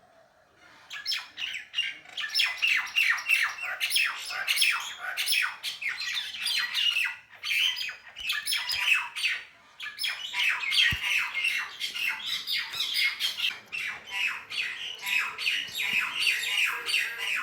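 Birds squawking in rapid runs of harsh calls, the sound of birds fighting. The calls start about a second in and break off briefly near the middle.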